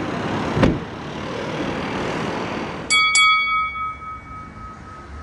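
Vehicle noise with a thump, then two quick bright dings of the same pitch about three seconds in, ringing out for about two seconds like a small bell or chime.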